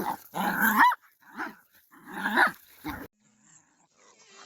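A dog barking and growling in a run of short, harsh barks that cut off suddenly about three seconds in; faint music begins near the end.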